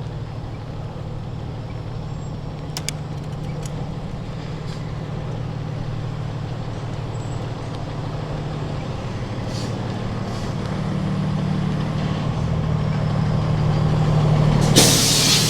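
A large road vehicle's engine running close by, a steady low hum that grows louder over the last few seconds, then a sudden loud hiss near the end.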